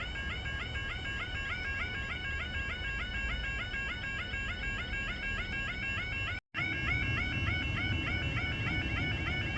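British level crossing yodel alarm sounding continuously, a warbling tone repeating several times a second. It keeps going because a barrier has failed to rise and the crossing stays activated. It cuts out for a split second about six and a half seconds in, then resumes slightly louder.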